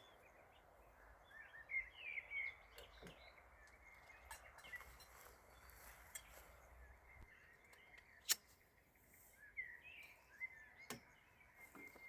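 Faint outdoor quiet with scattered small bird chirps and a few sharp clicks, the loudest about eight seconds in.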